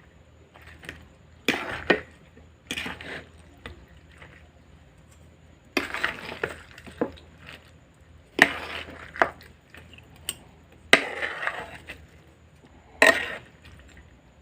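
Crisp raw salad vegetables being bitten and chewed close to the microphone. About six bursts of crunching come every two to three seconds, with quiet gaps between.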